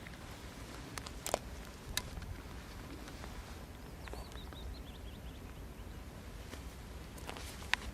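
Quiet outdoor ambience with a low steady rumble, a small bird giving a short run of high chirps about four seconds in, and a few sharp clicks.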